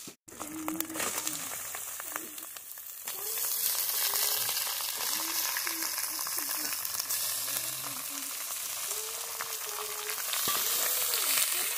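Raw duck meat and fried onions sizzling in hot oil in an iron kadai, with a metal ladle stirring now and then. The sizzle gets louder about three seconds in, once the meat is in the pan.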